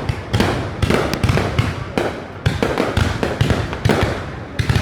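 Fireworks display: a dense, irregular barrage of bangs from bursting shells, many overlapping, several each second.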